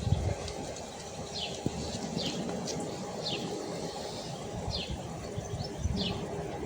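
A small bird chirping: a string of short chirps, each falling in pitch, about one a second, over a low rush of light wind.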